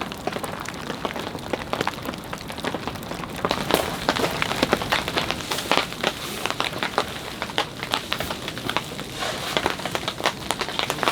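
Pouring winter rain hitting the camp shelter's fabric: a dense, irregular run of sharp drop ticks over a steady hiss.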